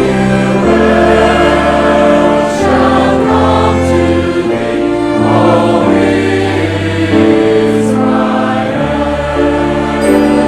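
Choir singing with orchestral accompaniment: sustained chords over a bass line that changes note every second or two.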